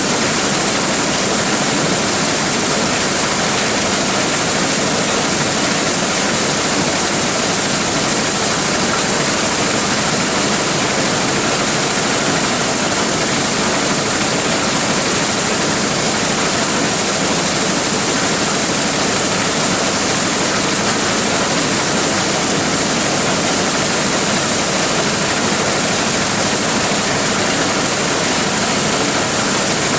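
Large engine-driven corn sheller running steadily under load: a loud, even mechanical rush with a strong high hiss, with no change throughout.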